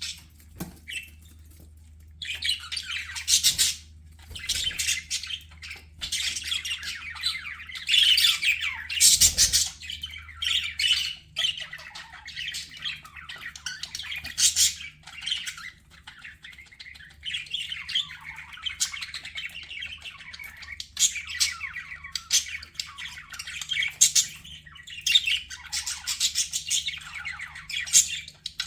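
Budgerigar warbling and chattering in fast runs with short gaps, starting about two seconds in, over a faint steady low hum.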